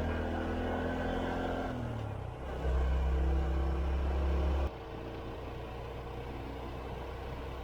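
Honda CT125 Hunter Cub's single-cylinder engine running steadily. It grows louder about two and a half seconds in, then drops suddenly to a quieter, even hum about two seconds later.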